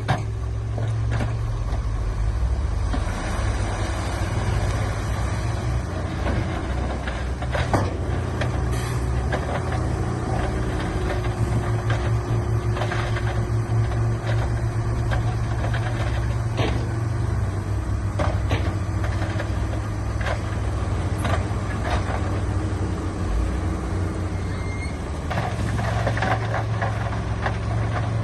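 Heavy diesel earthmoving machinery running under load, a deep steady engine drone with scattered knocks and clanks. The engine note eases about two-thirds through and picks up again near the end.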